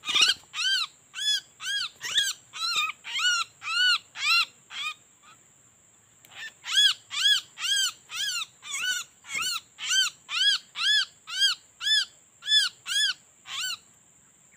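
A bird calling loudly and repeatedly, about two short rising-and-falling calls a second. The calls break off for a moment near the middle, then carry on until just before the end.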